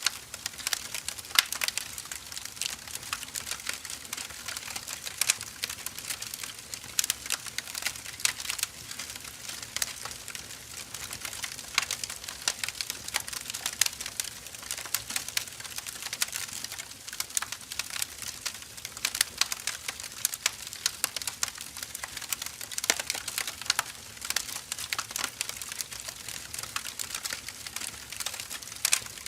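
Burning firewood crackling: a continuous soft hiss with dense, irregular snaps and pops and a few louder cracks.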